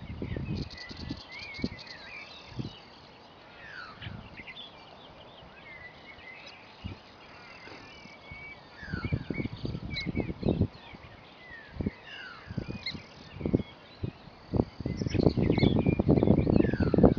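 Small wetland birds chirping and calling over and over, with a brief fast ticking trill about a second in. Irregular low rumbling buffets come and go beneath them and grow loudest in the last couple of seconds.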